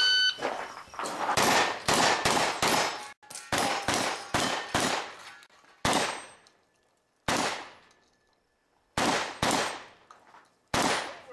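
A shot-timer beep, then a string of shotgun shots with steel target plates clanging and ringing as they are hit. The shots come fast at first, about a dozen in the first five seconds, then spaced out to single shots every second or two, the last near the end.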